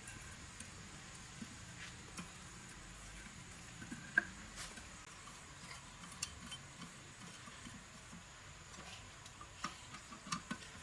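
Faint scattered clicks and light taps, irregular, with one sharper click about four seconds in and a small cluster near the end, over a steady low hiss.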